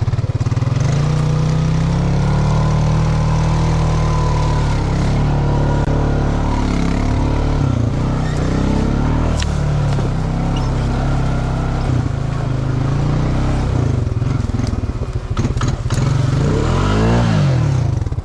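Off-road vehicle engine running hard and revving up and down through a mud hole, with a few sharp knocks and clatter along the way and a quick rev up and back down near the end.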